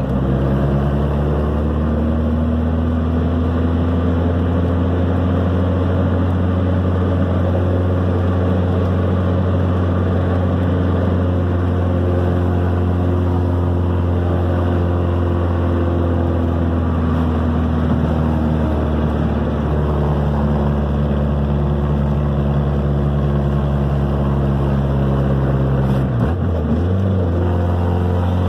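Car engine running under way, heard from inside the cabin, a steady low drone whose pitch slowly falls and rises, with a brief dip near the end.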